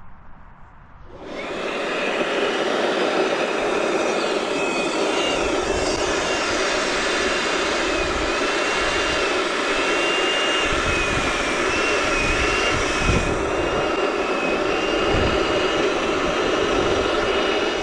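Electric balloon inflator running steadily as it fills a latex balloon, with a high whine that wavers slightly. It switches on about a second in and stops near the end.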